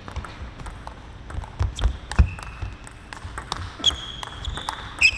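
Table tennis rally: the celluloid-plastic ball clicking off the table and rackets several times a second at an irregular pace, with sneaker squeaks on the court floor in the second half.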